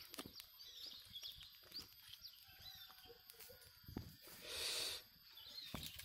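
Small birds chirping faintly in short, scattered high notes, with a brief burst of rustling noise about four and a half seconds in.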